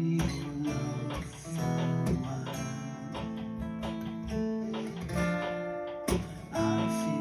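Acoustic guitar playing a bossa nova arrangement, with plucked chords and melody notes ringing over one another.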